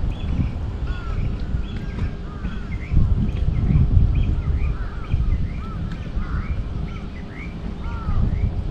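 Birds chirping repeatedly, many short, arching calls overlapping one another, over an uneven low rumble.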